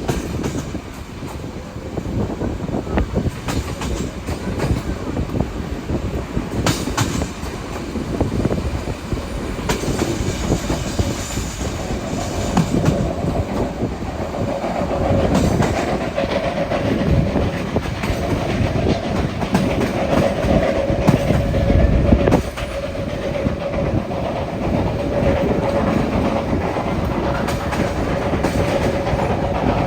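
A train running along the rails, its wheels clicking over the rail joints with a continuous rumble. A steady high tone joins about halfway through and carries on.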